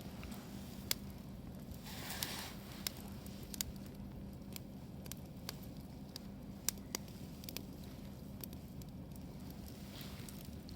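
Wood campfire crackling, with irregular sharp pops and a brief hiss about two seconds in.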